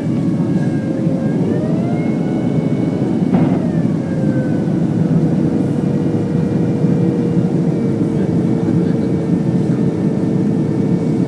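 Inside the cabin of a Boeing 767-300ER: steady deep rumble of the jet engines and airflow, with the engines' whine rising about two seconds in and dropping back as thrust is adjusted on approach, then holding steady. A brief knock about three and a half seconds in.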